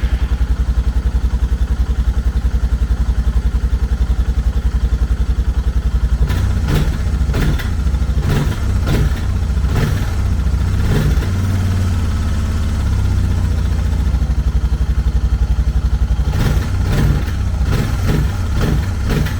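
Suzuki DR650's single-cylinder four-stroke engine running on its first start after a carburetor rebuild. It idles with a steady thump, and from about six seconds in the throttle is blipped repeatedly, with another run of blips near the end. The engine is not running well, which the owner puts down to a clogged fuel line and petcock starving it of fuel.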